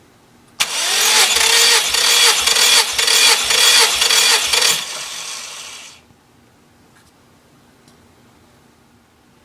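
Subaru STI Version 7 engine turning over on its starter for about four seconds, with a steady whine and a slow rhythmic pulse. It starts suddenly and winds down over the following second.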